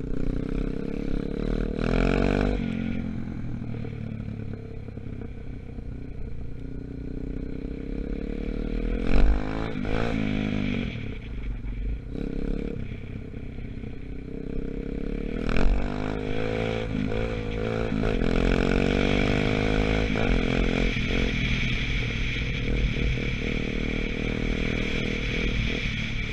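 A 125cc Gunshot dirt bike engine running under way, still being run in. Its pitch rises and falls repeatedly as the throttle opens and closes. Two sharp knocks come about nine and fifteen seconds in.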